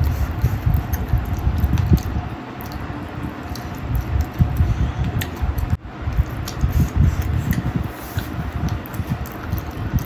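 Close-miked eating: a person chewing a mouthful of chicken and rice, with wet mouth sounds and many small clicks and smacks, irregular throughout.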